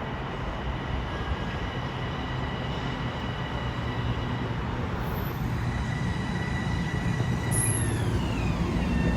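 Electric commuter train running past, with steady high whine tones from its traction motors over the rail noise; near the end the whine glides down in pitch as the train slows.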